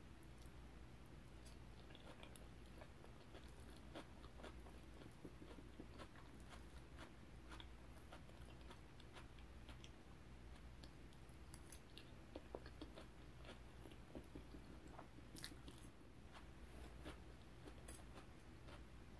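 Faint, close-miked chewing of a mouthful of potato salad with chopped celery: soft, wet mouth sounds with small crunches and many scattered clicks.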